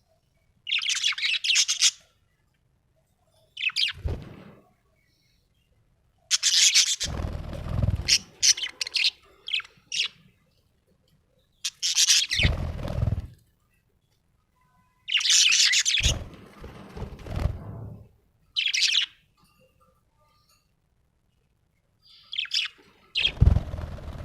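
Budgerigar chirping in short bursts of rapid, chattering chirps separated by silent gaps. A low rumble sits under several of the louder bursts.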